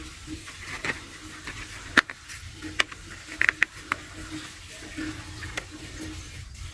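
Plastic toy bus body halves being handled and pressed together onto their locating points: scattered light clicks and knocks of plastic, the sharpest about two seconds in.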